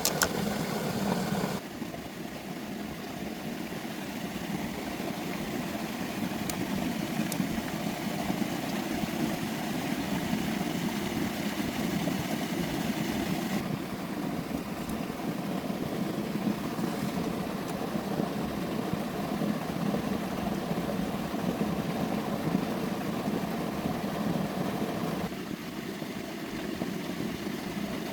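Tractor engine running steadily at idle. The higher hiss changes abruptly about a second and a half in, around halfway through, and again near the end.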